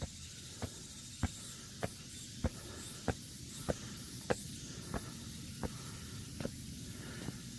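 Evenly spaced sharp knocks, about one every 0.6 seconds, over a steady background hiss.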